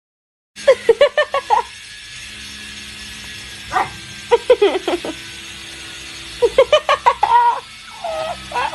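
A dog barking and yipping in quick runs of short calls, four bursts in all, starting about half a second in, over a steady low hum.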